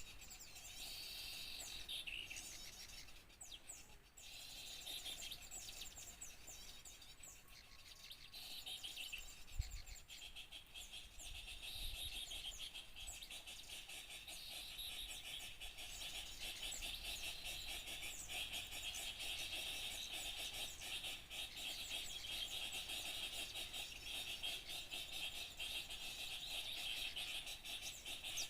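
Dense, continuous chatter of many small birds chirping and twittering at once: a bird-lure recording used to call small birds in.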